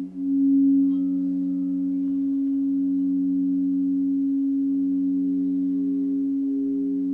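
Sound-healing drone of several low, steady sustained tones held together. The lowest tone pulses softly about every two seconds, and a higher tone comes in about five seconds in.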